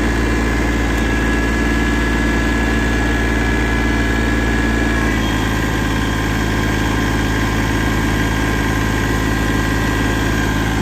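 Tractor engine running steadily, with a high whine over it that steps down in pitch about five seconds in.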